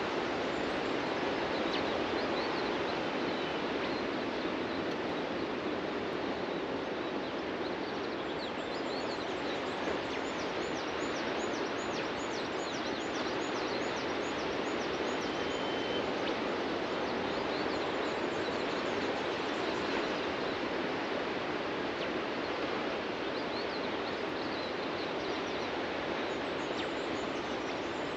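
Steady wash of surf from waves breaking on a beach, with birds chirping in quick high-pitched runs over it, mostly about a third of the way in and again near the end.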